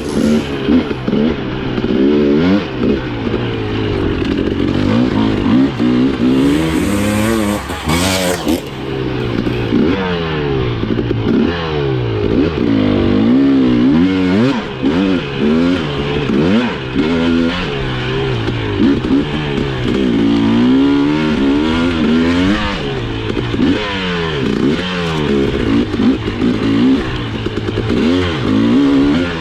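Husqvarna TE 300i single-cylinder two-stroke dirt bike being ridden hard on a trail, the engine revving up and falling back again and again as the throttle is worked, with some clatter from the bike over rough ground.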